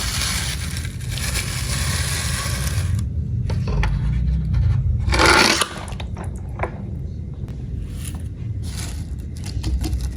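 Toy cars scraping and rattling along a hard surface, with one short, loud rush of noise about five seconds in, likely a toy splashing into water, then scattered light clicks.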